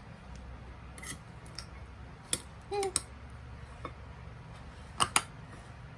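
Dishes and cutlery being handled, giving a handful of sharp clicks and clinks spread through the seconds, with two close together near the end and a brief squeak near the middle.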